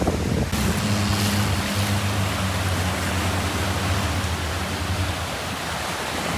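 Waves washing on a beach, a steady rushing noise, with a low engine drone underneath that fades out about five seconds in.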